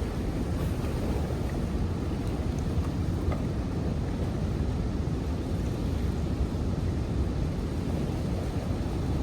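Wind rumbling steadily on the microphone, a low even noise.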